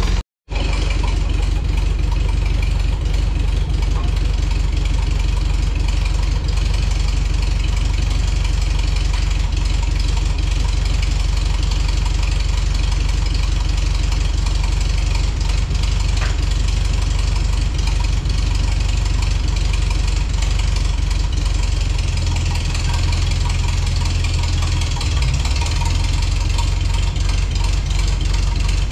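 Old carbureted tractor engine idling steadily, purring, freshly started after being choked by hand at the carburetor. The sound drops out for a split second near the start, and the low note grows somewhat stronger for a few seconds about 22 seconds in.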